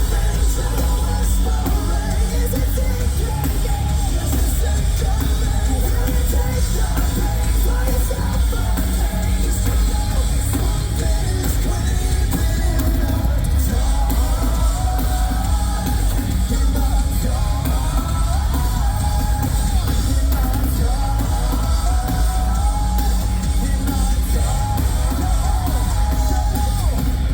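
Metalcore band playing live at full volume: distorted guitars, drum kit and heavy bass, with the singer's sung and screamed vocals over them.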